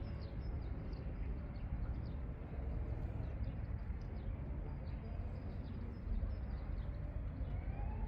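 Outdoor ambience: a steady low rumble with small birds chirping in quick, repeated short notes.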